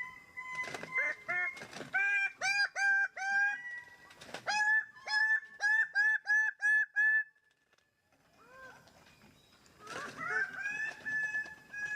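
Birds-of-paradise giving loud, harsh, repeated calls in fast series of about three notes a second. The calls break off for about a second past the middle, then start again near the end.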